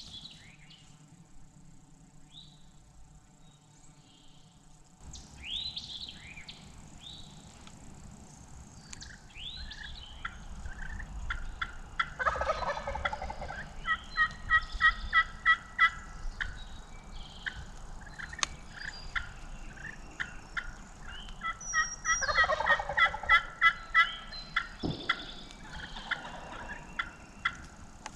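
Wild turkey gobbling, twice about ten seconds apart, each a loud run of fast rattling notes.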